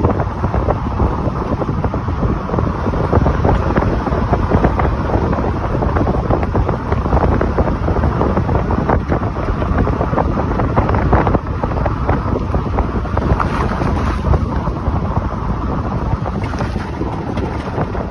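Truck exhaust running steadily as the truck drives along, buried under heavy wind buffeting on the microphone.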